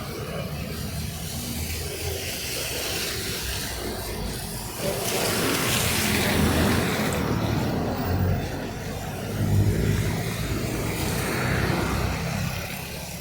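Street traffic: cars passing, engine rumble and tyre noise swelling and fading as each goes by, the loudest pass about five seconds in.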